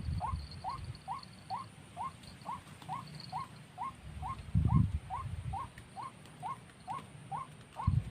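White-breasted waterhen call: short rising notes repeated evenly, a little over two a second, with no break. Low gusts of wind rumble on the microphone throughout, loudest a little before five seconds in and again near the end.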